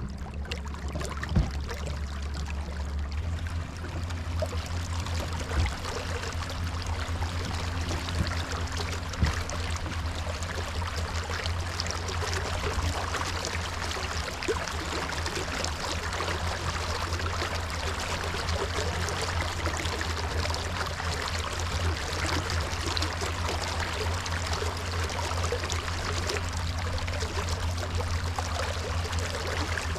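Water rushing and splashing along a kayak hull under way, over a steady low hum. A few sharp knocks come in the first ten seconds.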